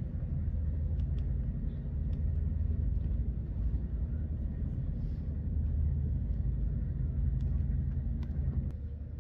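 Passenger train rolling along, heard from inside the carriage: a steady low rumble with a few faint clicks, easing off slightly near the end.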